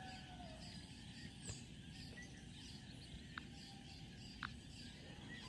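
Quiet outdoor ambience in still air: a low steady background with a few faint, short bird chirps scattered through it.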